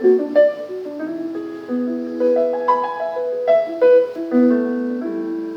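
Piano playing a jazz passage of chords and single notes, each struck note ringing and fading.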